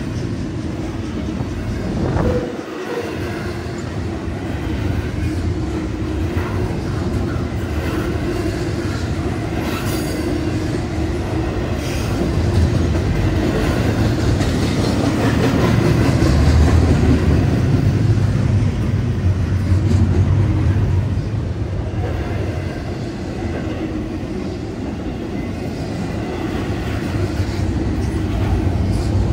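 Intermodal freight train rolling through a grade crossing, its cars' wheels clacking over the rails with a continuous rumble that swells louder through the middle stretch.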